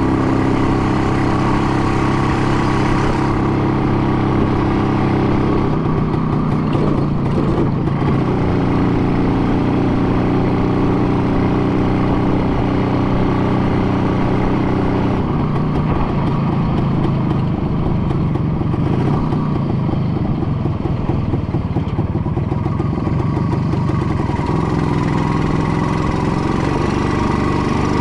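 An engine running steadily, its pitch shifting several times.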